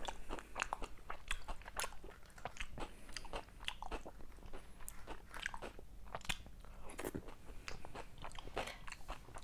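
A person chewing a mouthful of creamy tomato pasta close to a clip-on microphone, with a quick, irregular run of small mouth clicks.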